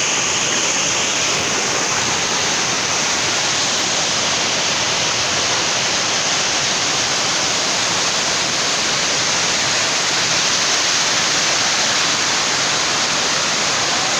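Waterfall on a creek: water pouring steadily and loudly, an even rushing noise.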